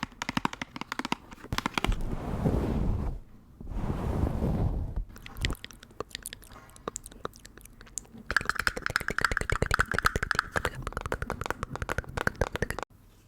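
Close-miked ASMR trigger sounds: rapid crackly tapping and crunching, with two short swells of rustling in the first half. The sound cuts off abruptly near the end.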